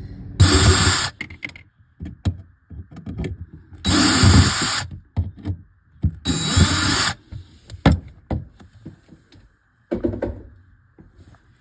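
Power drill run in three short bursts of about a second each, with small clicks and knocks between.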